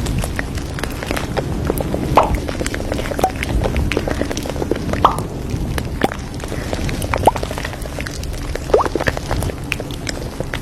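Café ambience: a steady low hum of the room with frequent light clicks and clinks of crockery, a few of them ringing briefly.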